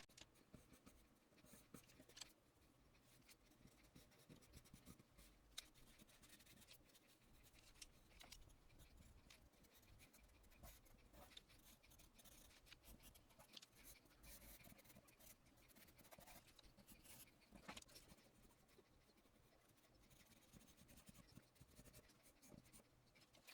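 Near silence with faint, scattered scratching and a few soft ticks: pastel pencil strokes on paper.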